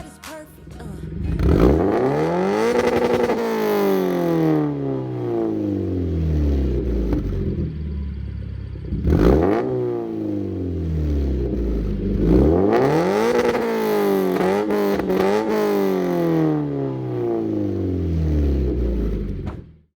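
Car engine revved up hard and winding back down over several seconds, with a quick sharp blip of the throttle midway, then a second rev up and long fall in pitch.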